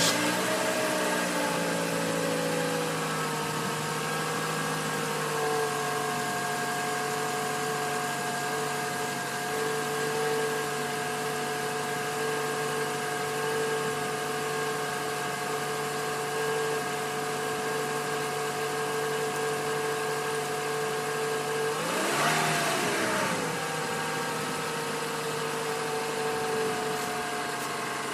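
2012 Toyota Camry SE engine idling just after a cold start: the fast idle settles down over the first few seconds, then runs steadily. About 22 seconds in, the engine speed briefly rises and falls back.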